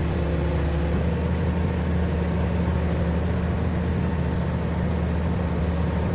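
Large diesel engine idling steadily, with no revving or change in pitch.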